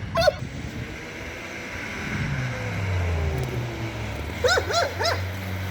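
Car engine of a homemade snowmobile running, its revs rising about two seconds in and then holding. A dog yelps once near the start and several times in quick succession near the end.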